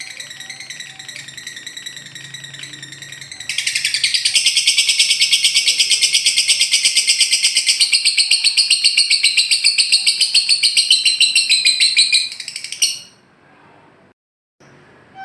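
Lovebird's ngekek: a long, loud, very rapid chattering trill lasting about nine seconds, starting a few seconds in and stopping abruptly near the end. Before it, a quieter warbling song.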